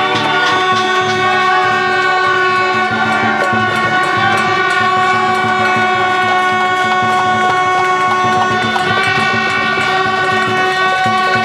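Many horns sounding together in a steady, unbroken blare of several held tones at once, the din of a street celebration.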